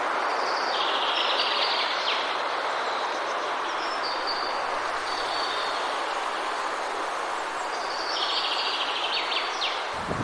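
Steady rushing wind, an even hiss without gusts or rumble. A bird calls with short trilling phrases about a second in and again near the end.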